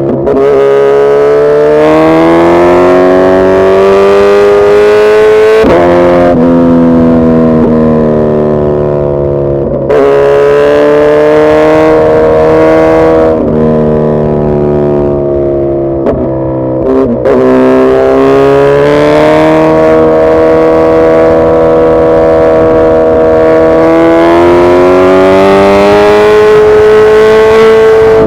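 Suzuki Hayabusa's inline-four engine pulling under acceleration. The pitch climbs for a few seconds at a time and breaks off at each of several gear changes. It then rises slowly and steadily through the last ten seconds or so.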